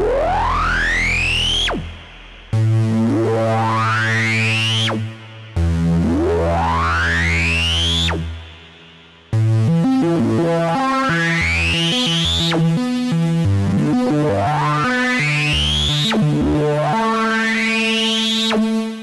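Arturia MiniBrute 2 analog synthesizer playing a demo patch: held low notes under repeated rising sweeps that climb for about two seconds and then drop off sharply. From about nine seconds in, a quicker sequence of changing notes runs under the sweeps.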